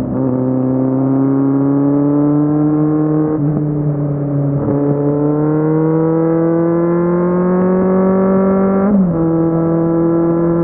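Kawasaki Z750's inline-four engine pulling under throttle, its pitch climbing steadily. The pitch dips briefly twice and then drops clearly about nine seconds in, as the revs fall.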